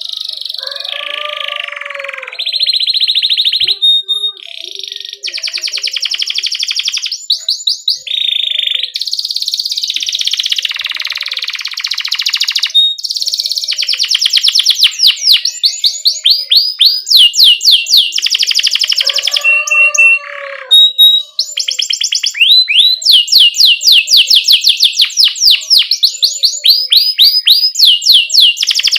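Domestic canary singing a long, varied song of chirps and rapid rolled trills, fast runs of repeated falling notes that change phrase every second or two, with a short break about two-thirds of the way through.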